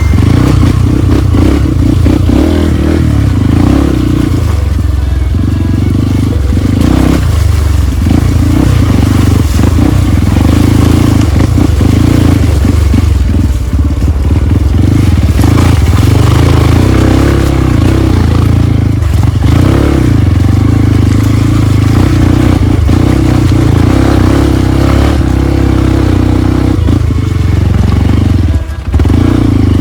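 Off-road trail motorcycle engine running under way, loud and steady, with a brief drop in level near the end.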